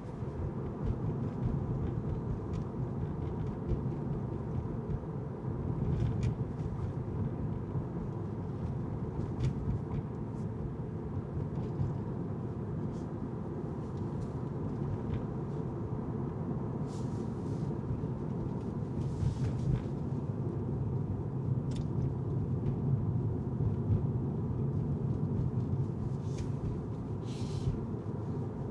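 A car driving, with the steady low rumble of its tyres and engine. A few brief hisses and small ticks come through, about two-thirds of the way in and again near the end.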